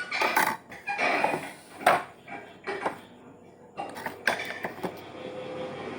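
Irregular metallic clinks, knocks and rattles as a small spirit-heated vulcanizing press is opened and handled, the sharpest knock about two seconds in.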